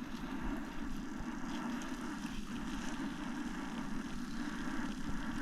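Food cooking in a frying pan on a camp stove, a steady hiss with an even low rush underneath.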